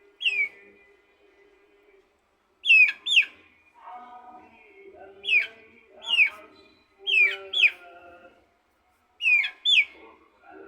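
Birds calling: a loud, short, high call sweeping down in pitch, repeated about nine times, often in quick pairs. Fainter lower calls come between them, over a steady low tone.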